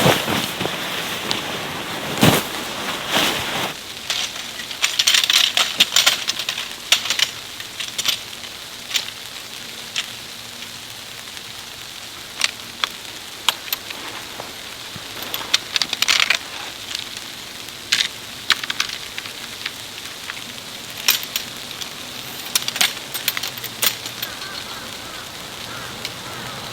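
Snowstorm ambience: a steady hiss scattered with irregular ticks and crackles of precipitation striking surfaces.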